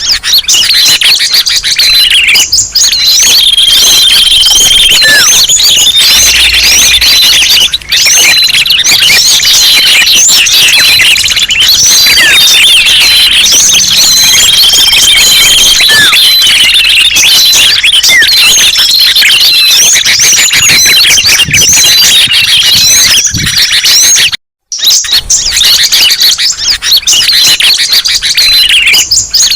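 Recorded bird-lure track: a dense, loud chorus of many small birds chirping and twittering over one another, with short whistled notes. It cuts out for a moment about 24 seconds in, then carries on.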